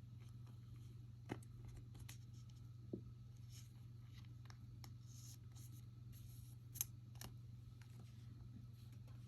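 Trading cards being handled and slid through by hand: faint swishes of card against card and a few light clicks, the sharpest about seven seconds in, over a steady low hum.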